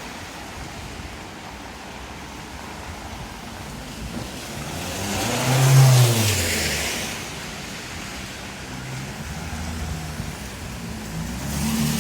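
A car drives past on a wet street: its engine note falls in pitch as it goes by and the tyre hiss swells to a peak about six seconds in, then fades. Steady rain hiss underneath, and another vehicle comes up near the end.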